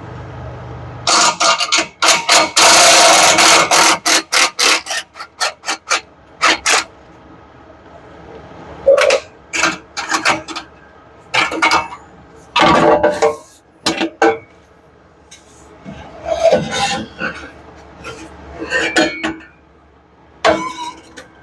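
Welding crackle in short bursts as exhaust pipe pieces are tack-welded in place: a dense burst of about three seconds near the start, then many brief tacks with quiet gaps between them.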